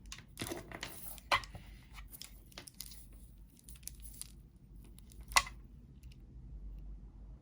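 Small clicks, taps and rustles of jewelry being handled at close range, with a sharp click about a second in and a louder one about five and a half seconds in.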